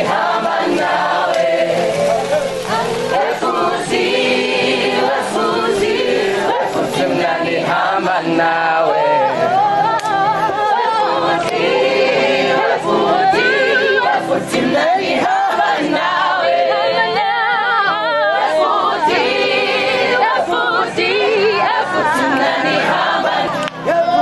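A group of voices singing together, choir-style, continuously.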